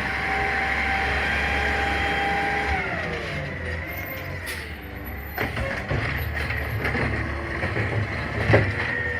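CNG garbage truck at work: an engine and hydraulic whine holds steady, then drops in pitch about three seconds in, followed by scattered metal clanks and knocks, the loudest near the end.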